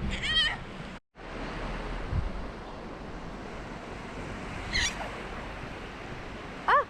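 Sea waves washing on a beach, with a few short, high, wavering cries over the surf: one just after the start, one near the middle and one near the end.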